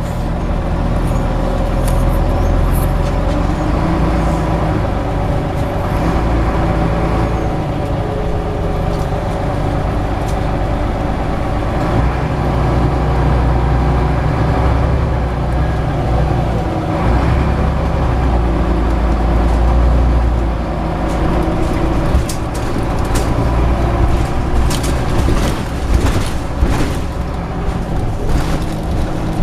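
Scania CN94UB Omnicity bus engine running under way, its pitch rising and falling with the throttle. In the last several seconds, sharp clicks and rattles join the engine.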